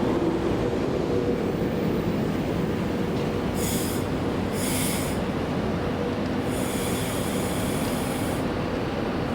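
Avanti West Coast Class 390 Pendolino electric train running through the station, with a steady rumble and hum. Short bursts of high-pitched squeal or hiss come about four and five seconds in, and a longer one near seven seconds.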